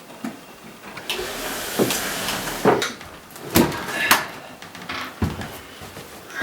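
Irregular knocks and clunks of things being moved and handled, six or seven in all, with a brief rushing hiss between about one and three seconds in.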